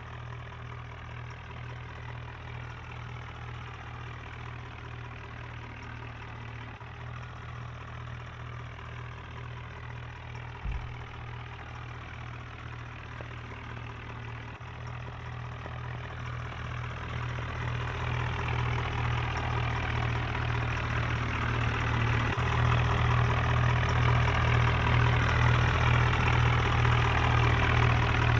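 Tractor's diesel engine running steadily, with one brief thump about ten seconds in. It grows louder over the second half and then holds.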